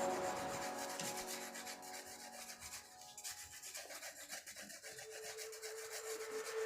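Faint, steady rubbing of a pencil or crayon on paper, a fast run of light strokes, with background music fading out at the start and a faint held note near the end.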